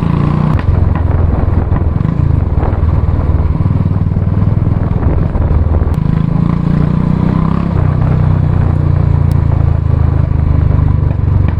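Royal Enfield Classic 350's single-cylinder engine running steadily under way, its exhaust thumping. The engine note rises for a moment about six seconds in, then drops back.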